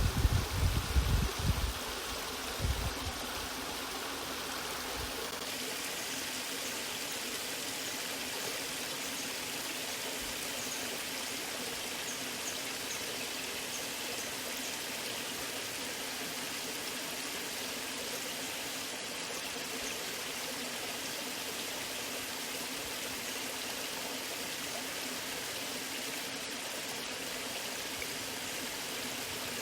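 Waterfall water running in a steady, even rush. Low thuds come and go in the first two to three seconds, then the rush goes on unchanged.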